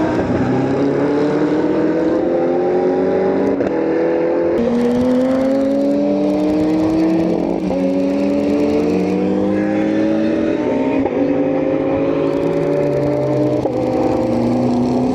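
Race car engines accelerating through the gears, several cars overlapping: each engine note climbs, drops sharply at an upshift, and climbs again, with shifts every few seconds.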